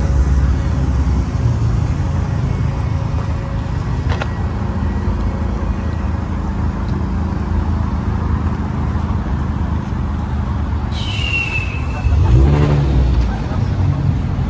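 Car engine running with a steady low rumble. About eleven seconds in there is a short high-pitched squeal, and just after it the engine briefly gets louder, as in a rev.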